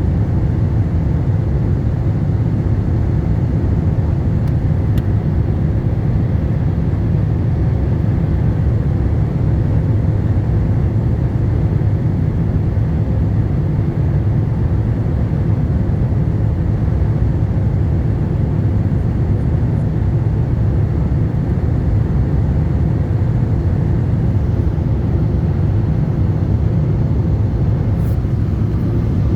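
Steady low rumble of a Boeing 747-8 airliner in flight, engines and airflow holding an even level.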